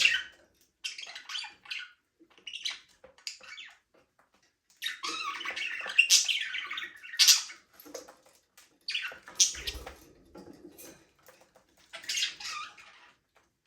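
Budgerigars chirping and chattering in bursts of quick, high warbles and squawks, with short pauses between the bursts.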